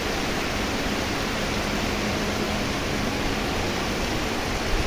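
Steady rushing outdoor noise with a fluttering low rumble underneath.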